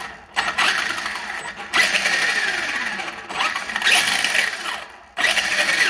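Traxxas Slash's brushless motor and gear drive being throttled in about four short bursts, each with a whine that glides in pitch, and a little gear noise. There is no screeching: the motor's loose rotor magnet has been glued back onto its shaft with thread locker.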